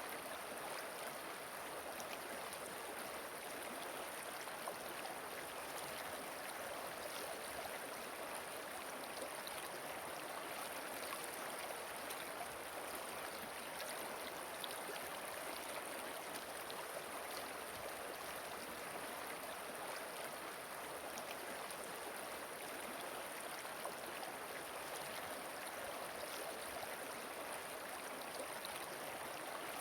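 Flowing water of a river or waterfall: a steady, even rush with faint scattered splashes and no breaks.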